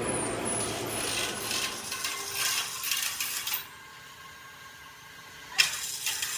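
Hand tools scraping and rasping on metal in quick strokes for about three and a half seconds. Then it goes quieter under a faint steady hum, and there is one sharp clank about five and a half seconds in.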